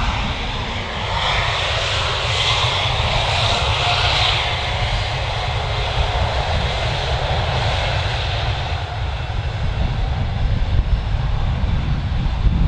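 Jet airliner's engines at takeoff power, a steady rushing noise with a strong hiss that eases after about five seconds while a low rumble builds toward the end.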